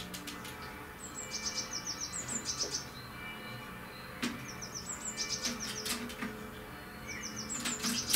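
Birds chirping in three runs of quick, high, repeated notes, with a few sharp clicks, mostly near the end.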